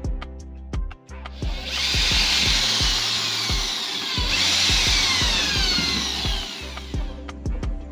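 A power tool working wood in two runs of about three seconds each, the second starting about midway, over background music with a steady beat.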